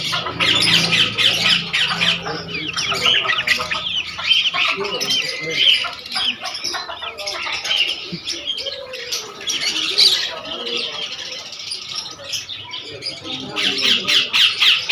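Many birds chirping and squawking at once in a dense, overlapping chatter of short high calls, as from a mass of caged birds for sale.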